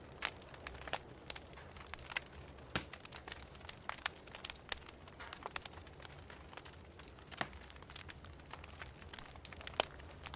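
Wood fire crackling in a fireplace: a steady scatter of irregular sharp pops and snaps, a few louder ones standing out, over a faint low hum.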